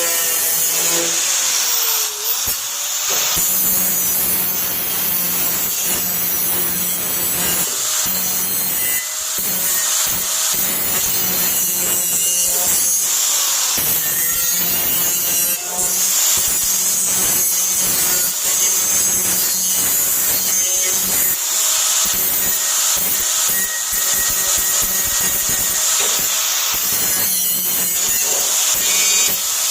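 Handheld power tool running steadily with an abrasive, rubbing hiss as it works over the Impala's steel hood panel during paint and rust prep. It eases off briefly a few times, about two, eight and fourteen seconds in.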